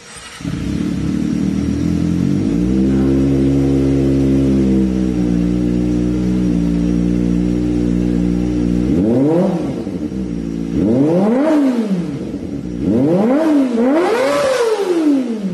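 Kawasaki Ninja ZX250R motorcycle engine running through an aftermarket exhaust, idling steadily at first. From about nine seconds in, the throttle is blipped four times, each rev rising and dropping back quickly.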